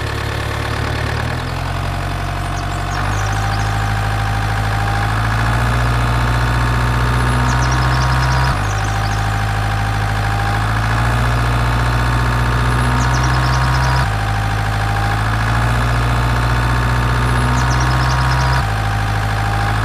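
Steady engine-like drone, as of an idling motor, that jumps abruptly to a slightly different pitch several times.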